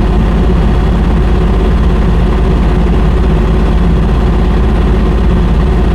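Diesel engine of a 3.5-ton JoyT5 JT5350 mini excavator running steadily, with a fast, even low throb and a steady hum above it.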